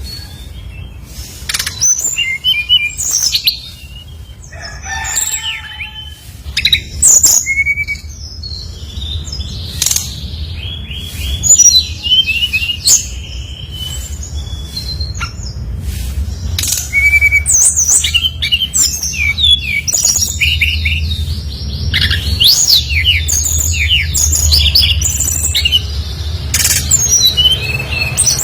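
SRDC (sikatan rimba dada coklat) songbird singing hard, in the Indonesian bird-keepers' sense of 'gacor': rapid chirps and short, sliding whistled phrases in quick runs with scattered sharp clicks, over a steady low hum.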